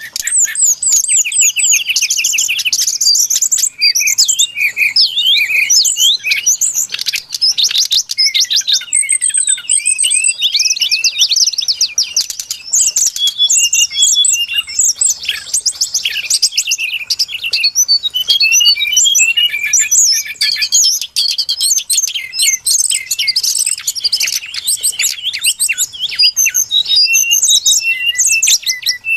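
Brown-chested jungle flycatcher song: a dense, unbroken run of rapid high chirps, trills and quick down-slurred whistles, played as a bird-lure call.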